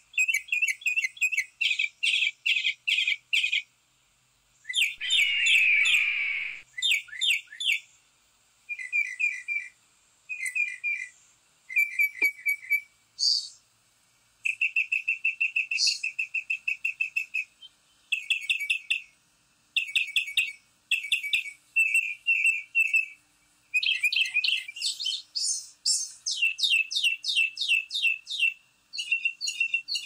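Backyard songbirds chirping in quick trills of repeated notes, in phrases about a second long with short pauses. About five seconds in, one louder, harsher call slides down in pitch.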